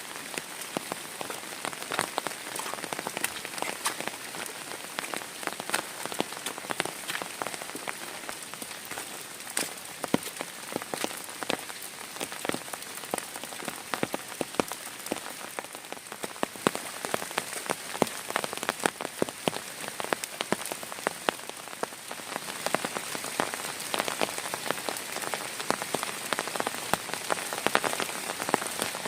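Heavy rain falling steadily, with a dense, irregular stream of sharp individual drop strikes on a nearby surface over the general hiss of the downpour.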